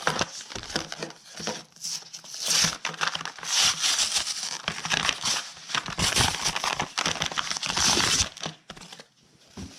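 Plastic packaging on a Pokémon trading-card product crinkling and tearing as it is unwrapped by hand, in a run of irregular crackles and rips that is busiest through the middle and dies down near the end.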